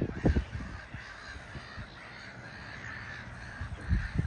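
A flock of black-headed gulls calling, many harsh cries overlapping continuously, with brief gusts of wind buffeting the microphone just after the start and again about four seconds in.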